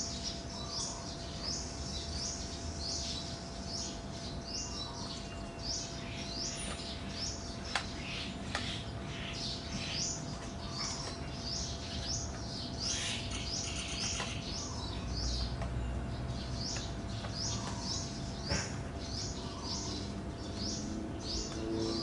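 A bird chirping over and over, short high chirps about twice a second, with a faint steady hum behind and a couple of sharp clicks.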